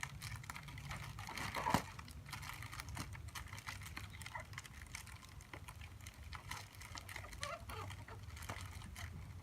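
Packaging being handled: irregular crinkling and clicking of plastic wrap, with one sharper knock just under two seconds in, over a low steady hum.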